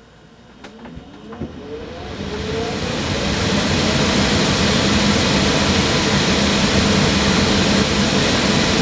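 Furnace blower fan starting up: a couple of clicks, then the motor spins up with a rising whine and the rush of air builds over about three seconds into a loud, steady airflow with a hum. The fan is running with the grate off and no filter in.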